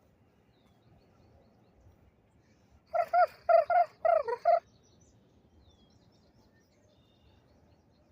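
A bird calling once: a quick series of about eight short, pitched call notes lasting about a second and a half, starting about three seconds in.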